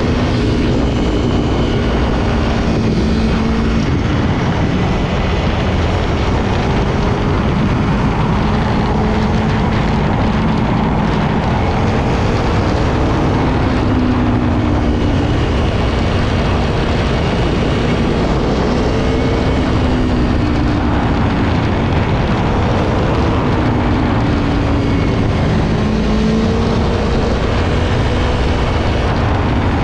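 Aprilia Tuono V4 1100's V4 engine running under way, its pitch slowly rising and falling with the revs, over a steady rush of wind noise.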